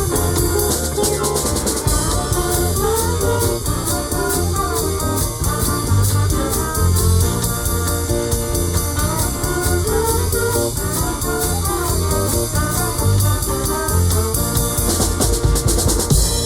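A band playing live in an instrumental passage: drum kit with steady cymbal strokes, low bass notes and guitar.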